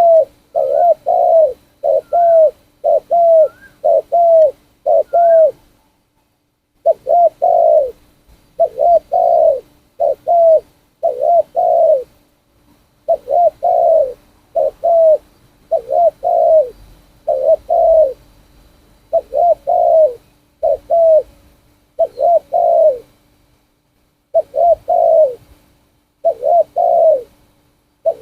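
A trained spotted dove cooing over and over in repeated multi-note coo phrases, with a few short pauses. In the first few seconds each phrase ends in a brief rising higher note.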